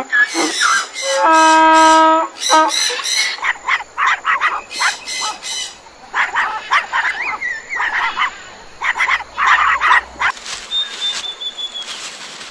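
A donkey braying: a held, steady note, then quick rasping hee-haw pulses. From about halfway on, a run of short, sharp dog barks.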